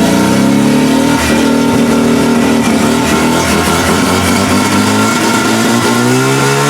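Mazda Wankel rotary engine in a homemade hot rod running and being revved, its pitch easing down and then rising again near the end.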